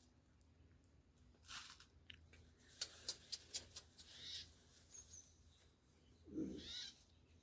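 Sparrows giving faint, scattered short chirps, a quick run of them about three seconds in, with a fuller call that has a lower part near the end.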